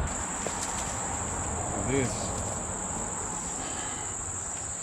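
Steady high-pitched insect chorus, an even buzz, over a constant rushing noise, with one short pitched sound about two seconds in.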